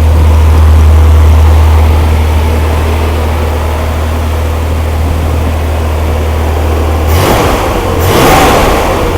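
Newly built Corvair air-cooled flat-six engine on its first run, idling steadily, then revved twice near the end.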